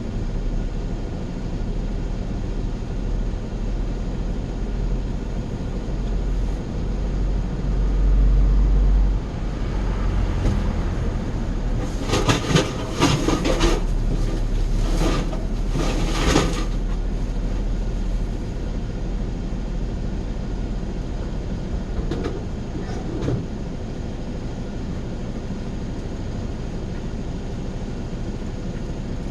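Steady low rumble and road noise of a moving vehicle heard from inside, with a run of louder rattles and knocks about midway.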